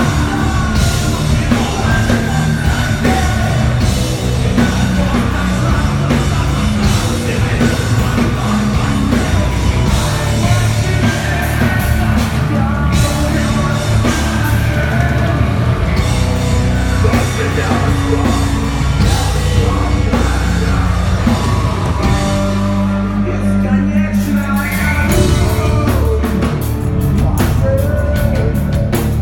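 A heavy rock band playing live, with distorted guitars, bass, drums and a singer. About three quarters of the way through, the band briefly holds a steady low chord, then the full band plays on.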